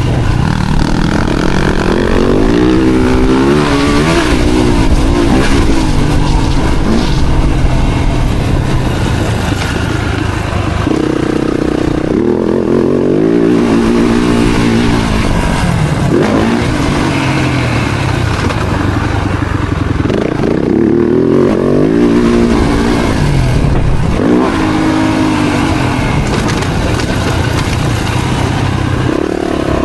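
Four-stroke single-cylinder Yamaha YZ-F motocross bike engine, its pitch climbing and dropping again and again as the throttle is opened and closed.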